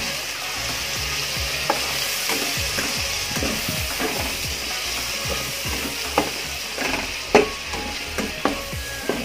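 Diced hotdog and garlic sizzling in oil in a stainless steel pan while a spatula stirs and scrapes through them. Sharp clicks of the spatula against the pan come in from about two seconds in, the loudest about seven seconds in.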